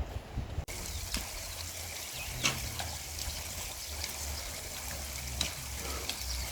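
Mountain stream running: a steady rush of water, with a few sharp clicks over it. It comes in abruptly under a second in.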